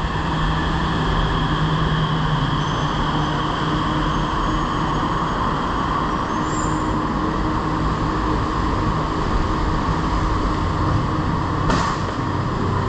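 Bangkok MRT Purple Line train running, heard from inside the carriage: a steady rumble with faint electric whines. A brief click comes near the end.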